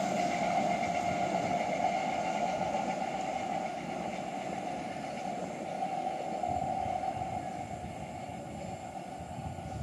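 Electric multiple-unit (EMU) local train running away along the track, its rumble and wheel-on-rail noise steadily fading as it recedes.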